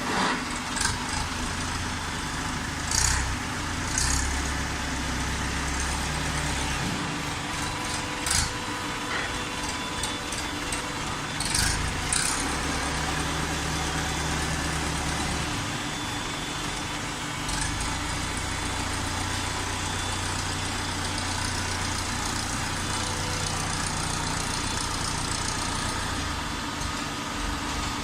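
Automatic waste-paper baler running: a steady machine hum, with a deeper drone that comes on for several seconds at a time and drops away again, as under pressing load. Several sharp knocks, about half a dozen, fall in the first half.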